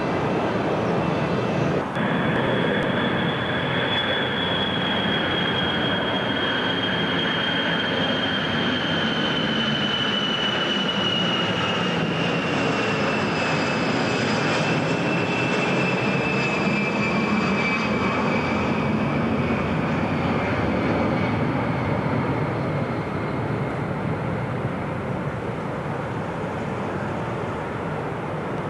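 Jet airliner engines running, with a high whine that comes in about two seconds in and slowly falls in pitch over some twenty seconds, then eases off slightly near the end.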